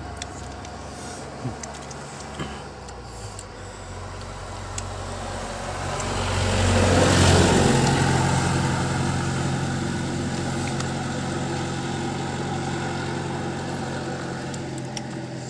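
A motor vehicle's engine and tyres swell up and pass close by about seven seconds in, then an engine hum runs on steadily.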